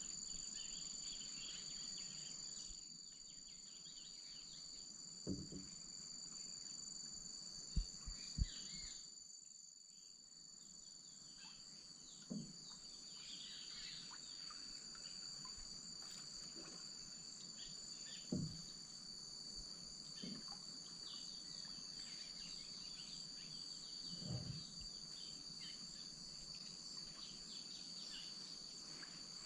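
Amazon wetland insect chorus: a steady high buzzing in two pitches, with many short chirping calls over it. About six soft low thumps from the canoe paddle are scattered through it.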